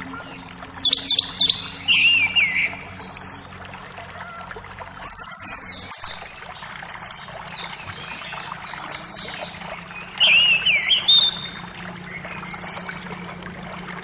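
Forest birds singing: short, high call notes repeat about every two seconds, mixed with lower whistles that sweep up and down. A faint steady creek murmur runs underneath.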